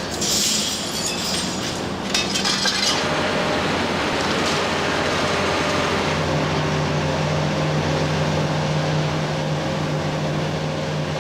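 Building demolition: debris crashing down with glass and metal clinking and breaking in the first three seconds, then the steady running of a heavy machine's engine.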